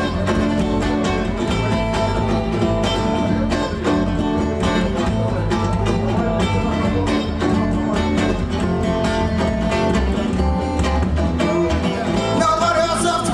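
Instrumental break of a song: acoustic guitar strummed steadily, with a violin playing held notes over it.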